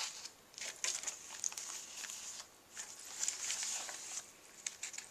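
Paper pages of a handmade junk journal being turned and handled: a string of short, uneven rustles and flaps with a few sharp clicks.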